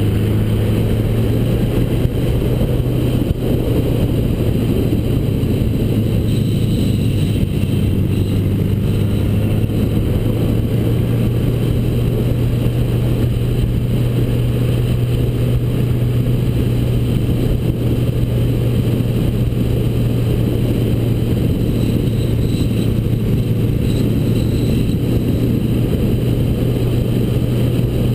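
1979 Honda GL1000 Gold Wing's flat-four engine running steadily on the move, holding one pitch, under a low rushing noise of wind and road.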